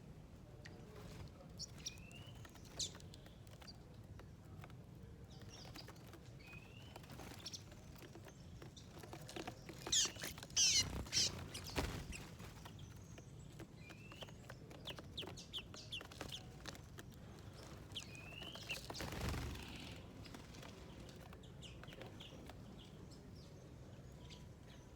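Small wild birds chirping: scattered short calls and little rising chirps, with a louder flurry of several chirps about ten seconds in and another shorter one around nineteen seconds.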